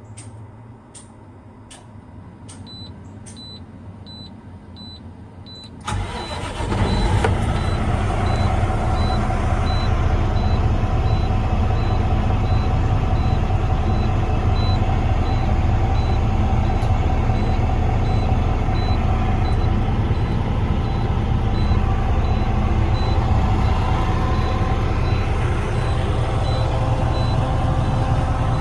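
Cummins X15 diesel engine in a truck starting about six seconds in, then idling steadily and loudly. Before it there are several sharp clicks, and a high beep repeats about twice a second throughout.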